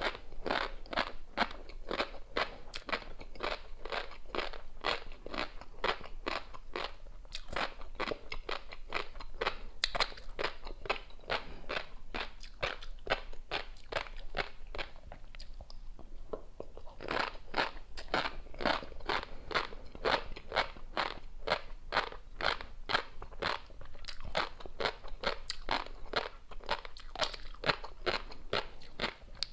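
Close-miked chewing of a mouthful of tobiko (flying fish roe), the roe grains crunching and popping in rapid strokes, several a second. There are two brief pauses, about 7 and 16 seconds in.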